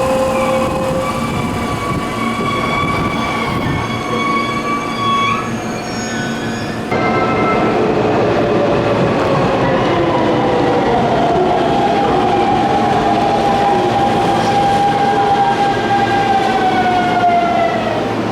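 Electric commuter train at a station platform: a steady motor whine over a running rumble. After an abrupt change about seven seconds in, the whine slides slowly down in pitch, as an inverter-driven train does when braking to a stop.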